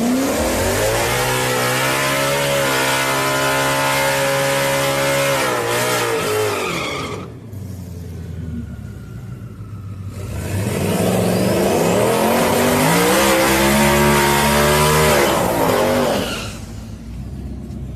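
Two Mustang drag cars doing burnouts in turn. In each, the engine revs up, holds high and steady for several seconds with tyre squeal, then drops back. The first runs about seven seconds; the second starts after a short lull and runs about six.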